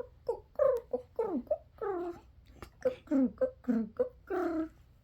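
A person's voice making a bird call: a quick run of about ten short calls, most of them falling in pitch.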